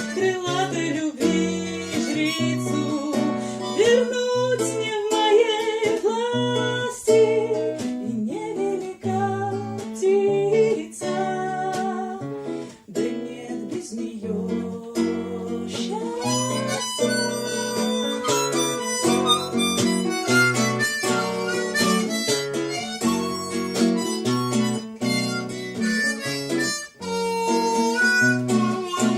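Harmonica playing the song's melody as an instrumental break, with wavering and bending notes, over a strummed guitar accompaniment with a steady bass line.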